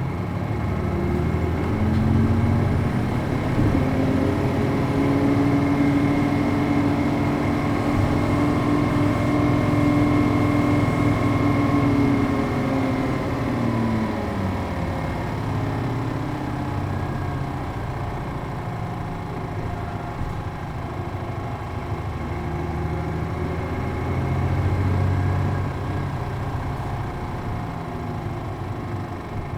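City bus MD92TJ diesel engine with a five-speed manual gearbox, pulling with its pitch rising for about eleven seconds. It then eases off and drops in pitch around the middle, runs lower, and rises and falls briefly again near the end as the bus drives along.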